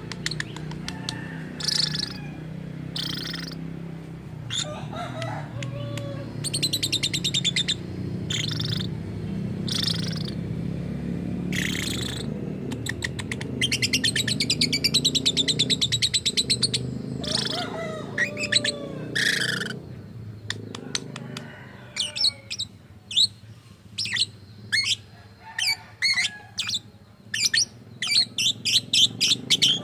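Lovebird calling: repeated short, shrill screeches and two spells of rapid chattering trills, turning into quick clusters of sharp chirps in the last third. A low steady hum sits underneath until about two-thirds of the way through.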